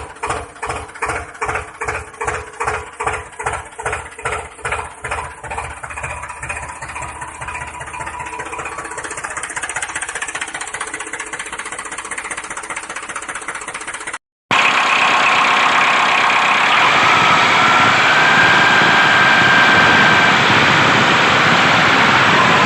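Small engine of a homemade mini tractor chugging in even beats about three a second, which quicken and blend into a steady run. After a sudden cut it is running steadily, with a brighter sound and a faint rising whine.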